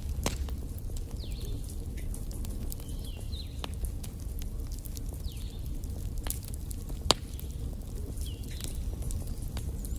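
Wood fire burning in a fireplace, crackling with scattered sharp pops over a low rumble of flame; one louder pop about seven seconds in.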